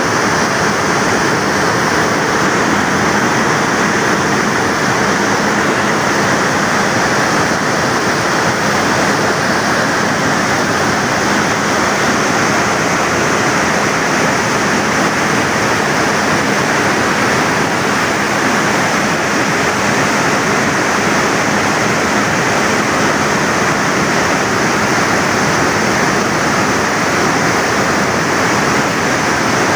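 Water rushing through the open service spillway of Tarbela Dam in flood: a loud, steady rush of falling water.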